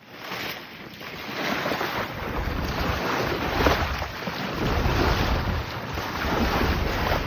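Wind buffeting the microphone over the rush of waves, aboard a sailboat under way.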